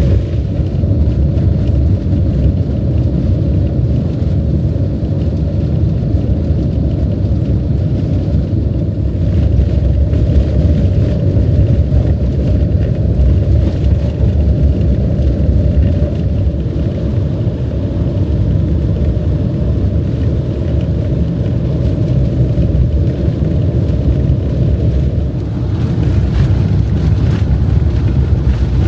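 Steady low road rumble of a van driving, heard from inside the cab: engine and tyre noise.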